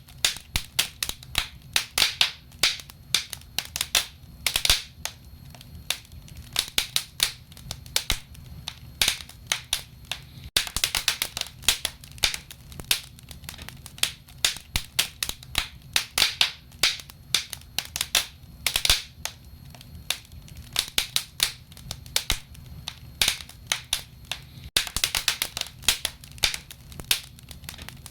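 Wood fire crackling in a fireplace: a steady stream of sharp, irregular pops and snaps, several a second, over a low rumble.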